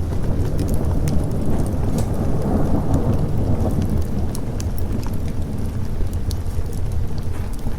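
Rolling thunder that swells to a peak about three seconds in and then fades, over steady rain, with scattered sharp crackles from a fireplace fire.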